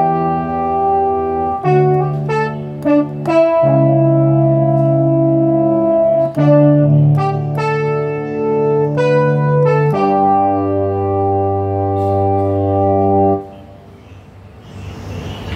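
Yamaha CK61 stage keyboard playing slow, held chords on one of its brass or wind voices, changing chord every second or two. The last chord is released near the end, leaving a faint hiss.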